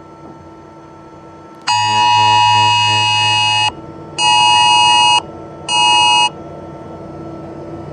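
An electric buzzer sounds three times: one long blast of about two seconds, then a one-second blast and a shorter one. Under it runs the faint steady hum of a running engine lathe.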